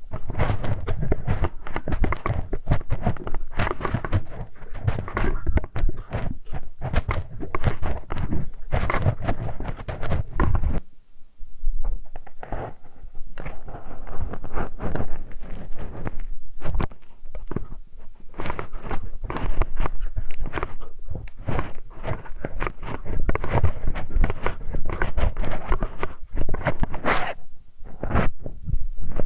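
Close-miked ASMR ear-cleaning sounds: a tool scraping, rubbing and tapping in the ear, a dense run of crackles and knocks with a short lull about eleven seconds in.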